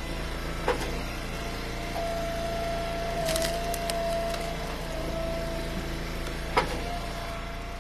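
Eastonmade Ultra hydraulic wood splitter running steadily, its tone wavering as the ram works under load. Cherry and ash firewood rounds crack and split sharply about a second in and again near the end.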